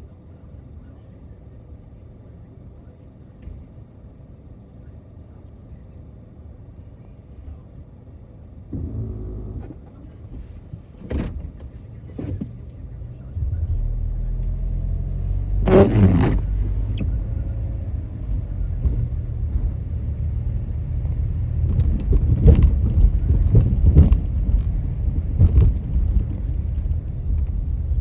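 Car driving, a steady low rumble of engine and road noise that gets clearly louder about halfway through, with several sharp knocks or thumps in the second half.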